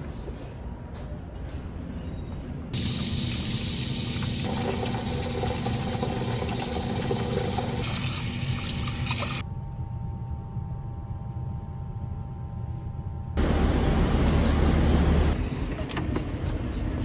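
Vehicle and road noise, with a rushing hiss in some stretches, in several clips that change abruptly, with a quieter steady hum for a few seconds in the middle and a louder low rumble near the end.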